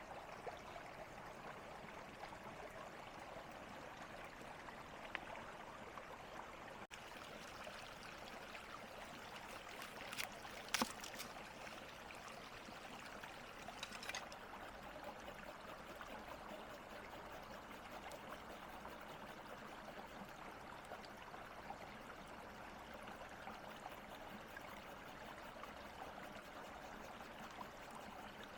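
Faint, steady rushing of flowing water, like a small stream, with a few sharp clicks about ten to eleven seconds in and another near fourteen seconds.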